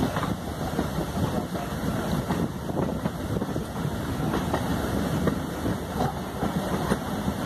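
Running noise of a moving railway passenger coach heard from its open window: wheels on the track rumbling with scattered knocks and rattles, and wind buffeting the microphone.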